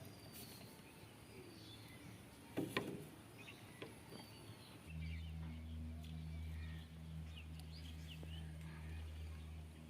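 Small birds chirping faintly, with a single sharp knock a little before halfway. About halfway through, a steady low motor hum starts and carries on.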